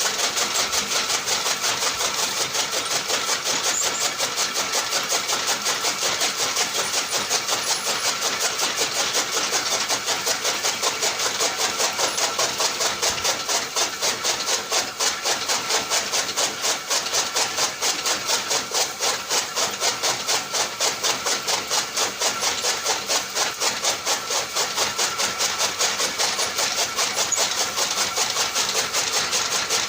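Small electric motor of a homemade mini tractor machine running steadily, with a fast, even rattle and little bass.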